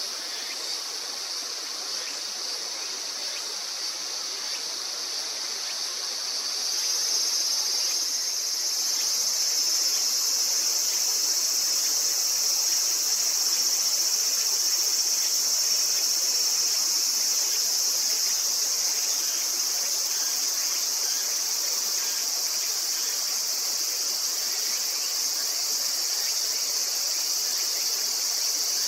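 A steady high-pitched chorus of insects, growing louder about seven seconds in, over the even rush of a river.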